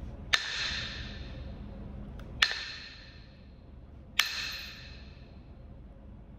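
Three sharp percussion strikes on Kentucky hornstone in flintknapping, about two seconds apart, each leaving a brief ringing tone that dies away within a second.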